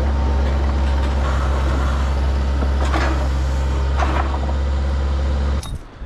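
A vehicle engine idling steadily with a low, even hum, then shut off abruptly near the end.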